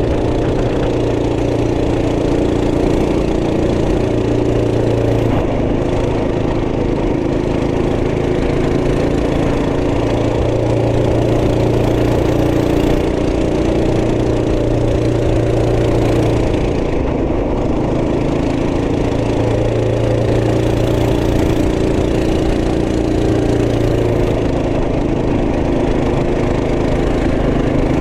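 Trail Master MB200 minibike's 212cc single-cylinder four-stroke engine running steadily under way. Its note rises and falls slightly several times with the throttle.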